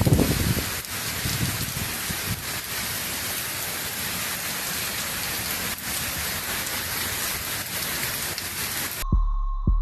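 Heavy hurricane rain pouring steadily, with scattered sharp drop hits on surfaces. About nine seconds in it cuts off suddenly, giving way to a throbbing electronic beat with a steady hum-like tone.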